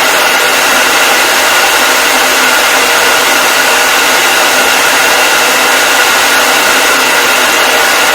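Hair dryer running steadily: a loud, even blowing hiss with a faint constant whine from its motor.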